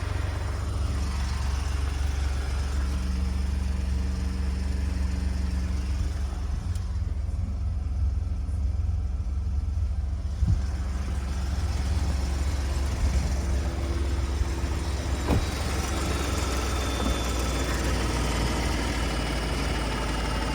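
2018 Ford F-150 engine idling steadily after a cold start, being checked for timing chain noise. A few sharp clicks sound about ten and fifteen seconds in.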